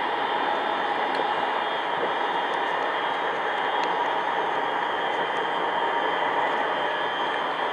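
Škoda 13T low-floor tram running between stops, heard from inside the passenger compartment: a steady rolling and running noise with a faint hum and a few light ticks.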